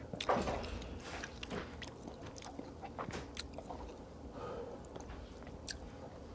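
Close-miked mukbang eating sounds: a person biting and chewing cheese with many irregular wet smacks and crunchy clicks, one of the loudest just after the start.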